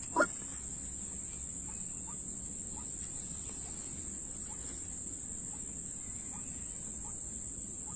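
Steady high-pitched insect drone with faint, scattered short bird chirps every second or so; one louder bird call sounds right at the start.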